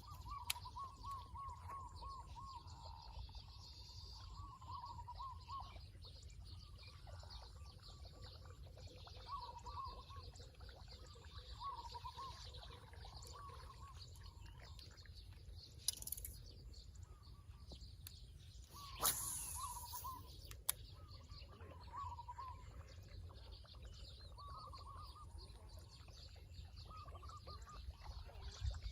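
A bird calling outdoors: a short warbling phrase repeated every second or two. A few sharp clicks come in about two-thirds of the way through, and a steady low rumble runs beneath.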